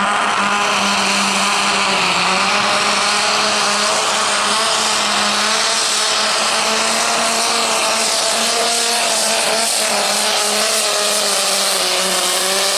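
Super stock pulling tractor's turbocharged diesel engine running flat out under load during a pull, its pitch held nearly steady with only slight wavers.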